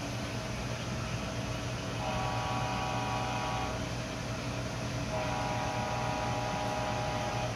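Walthers Mainline GE ES44 model locomotive's onboard sound playing a steady diesel engine hum, with two long horn blasts, the first about a second and a half and the second over two seconds.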